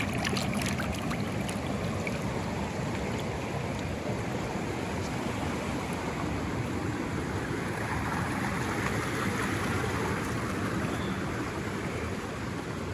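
Steady rushing of flowing water, an even noise with no distinct events.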